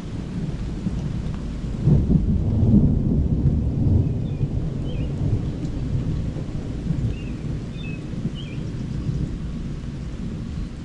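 Rolling thunder rumbling low, swelling about two seconds in and then slowly trailing off.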